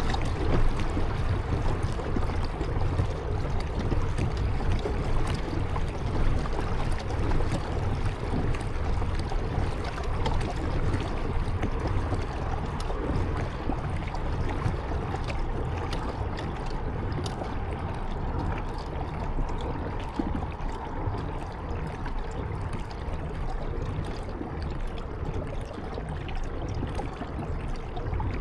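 Water splashing and trickling around a kayak moving on a river, with faint scattered drips and a steady low rumble underneath.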